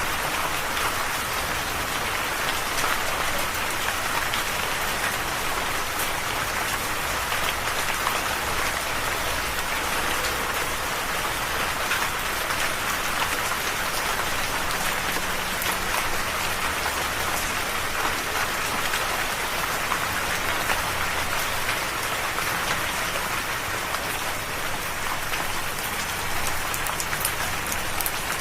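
Steady rain falling and pattering on a surface, with individual drops ticking through the even hiss.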